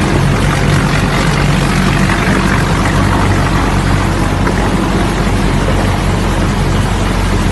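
Jeep engine running steadily under a loud, even rushing noise.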